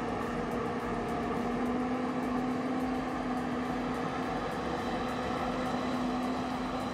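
A heavy machine's engine running steadily, with a constant hum.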